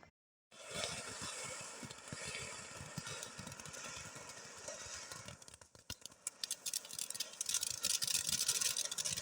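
Firework fountain (TNT Kool Kat) spraying with a steady hiss starting about half a second in. After a brief dip around six seconds in, the next tube takes over, louder, with a rapid crackle of sharp pops that builds toward the end.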